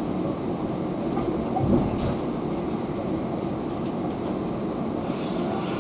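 Moving passenger train heard from inside the carriage: a steady low rumble of wheels on rails, with faint clicks and one louder knock a little under two seconds in.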